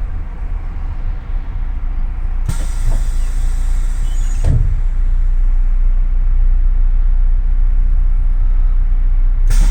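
Double-decker city bus heard from inside: a steady low engine rumble that grows louder as the bus moves off, broken by a two-second hiss of compressed air ending in a knock a few seconds in, and another short air hiss near the end.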